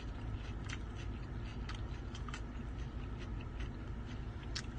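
Someone eating, with a few faint short clicks or crunches over a low steady hum.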